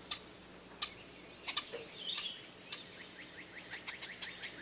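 Birds chirping faintly: scattered short, high chirps, then from about three seconds in a fast, steady run of repeated chirps, several a second.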